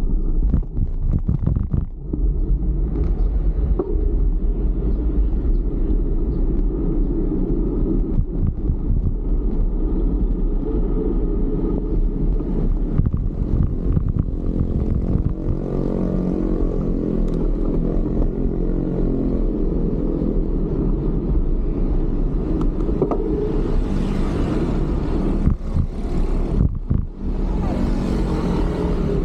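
Wind rumbling on the microphone of a bicycle rider moving through city traffic, with a motor vehicle's engine passing close by around the middle.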